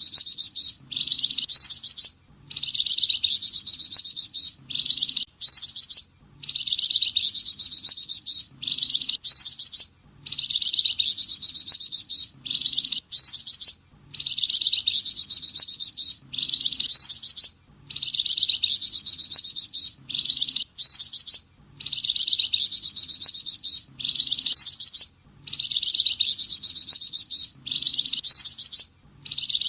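Flamboyan songbird's 'tembakan' song: dense, rapid, high trilled phrases, the same phrase repeating about every four seconds with a short break between, as in a looped masteran recording for tutoring other songbirds.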